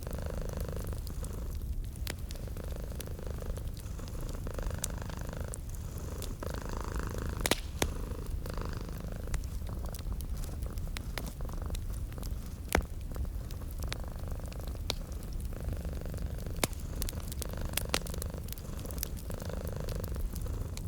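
Cat purring in a steady low rumble, swelling with each breath about every second and a half, over the crackle of a fireplace: scattered sharp snaps, a few of them louder pops.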